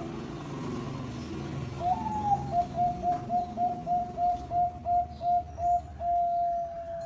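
Zebra dove (perkutut) cooing. A rising opening note about two seconds in is followed by a quick even string of about a dozen short coos, about four a second, and then one long held closing note. A steady low hum runs underneath.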